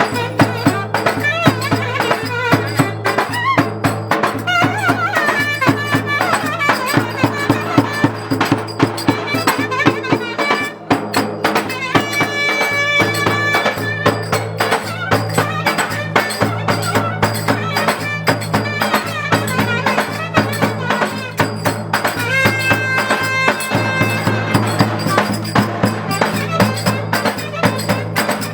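Traditional folk music with fast, steady percussion over a low drone. A melody instrument holds long high notes twice, about twelve and twenty-two seconds in.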